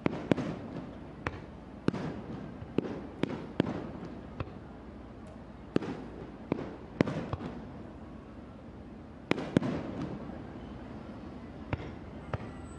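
Aerial firework shells bursting in an irregular series of more than a dozen sharp bangs, each trailing off in a rumbling echo, with the loudest bangs about a second in and around three quarters of the way through.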